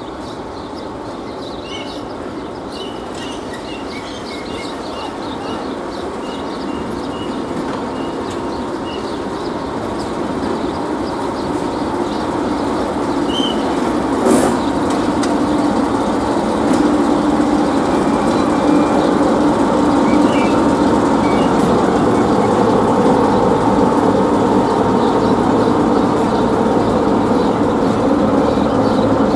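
A train approaching, its rumble growing steadily louder, with a steady hum coming in during the second half. Small birds chirp in the first half, and there is one sharp click about halfway.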